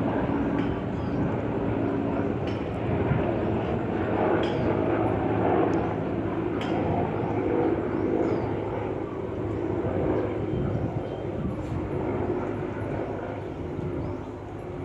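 Helicopter flying past overhead: a steady rotor and engine drone that is loudest a few seconds in and fades toward the end.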